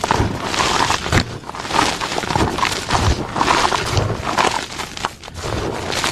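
Plain gym chalk blocks being crushed, giving crunchy, powdery crumbling in repeated crunches about one to two a second, with a short lull near the end.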